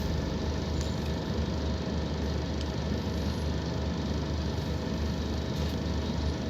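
Scania K230UB Omnilink single-deck bus, its five-cylinder diesel running steadily under way with a low rumble and a thin steady whine over it.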